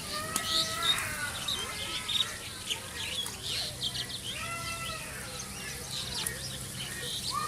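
Small birds chirping and twittering throughout, with a couple of longer arching calls from a voice or animal in the background and a low steady hum.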